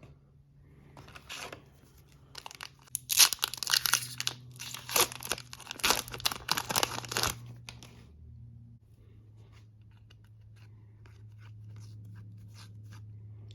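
A foil hockey card pack wrapper being torn open and crinkled: several rough tearing and crinkling bursts over about four seconds, followed by faint light ticks as the cards are handled, over a low steady hum.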